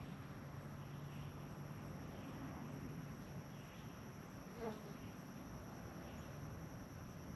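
Faint chorus of insects outdoors: a steady high trill with soft repeating chirps, over a low steady buzz that fades out about halfway through. A single short chirp stands out about four and a half seconds in.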